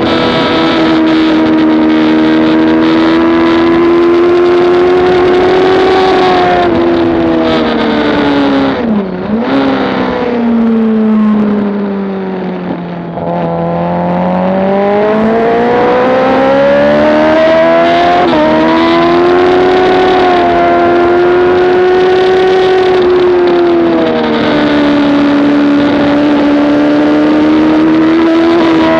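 Motorcycle engine at track speed, pitch holding high, then falling steeply twice as it slows for a corner about a third of the way in. It climbs back up through the revs with a shift step, runs steady, and eases off briefly near the end.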